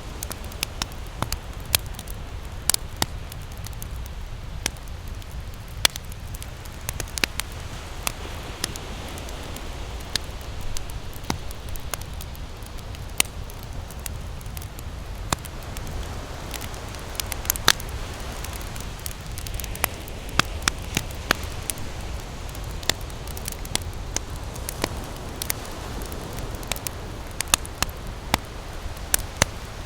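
Wood campfire crackling, with irregular sharp pops and snaps several times a second, over a steady low rush of ocean surf.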